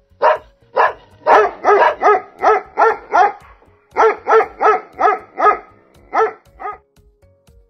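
Dog barking repeatedly: about eighteen sharp barks in quick runs of roughly three a second, with a short break about halfway through, stopping about a second before the end.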